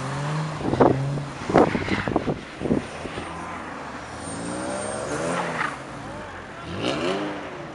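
BMW E30 car engine revving as the car slides sideways through deep snow, its pitch climbing in the first second and rising and falling again later, with people's voices shouting over it.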